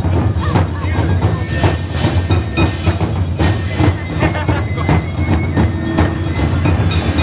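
Japanese festival music: drum and wood-block percussion beaten in a steady rhythm, about two strikes a second, with a faint held high tone at times.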